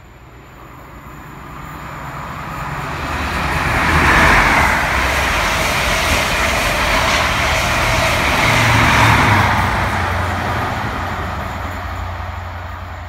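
Express train of Mk4 coaches passing at speed: a rush of wheels on rail that builds up, is loudest from about four seconds in with a steady low hum beneath, and then fades gradually.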